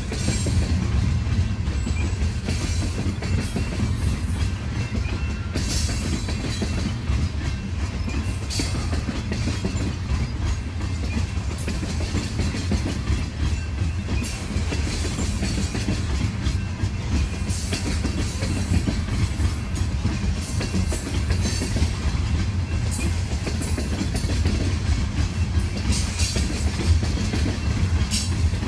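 Loaded coal train's freight cars rolling past: a steady low rumble of wheels on rail, with irregular clicks and rattles from the wheels and cars.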